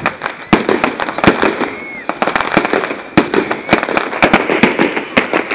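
Fireworks going off in quick succession: a dense run of sharp bangs and crackles, several a second, over a constant background rumble of the display.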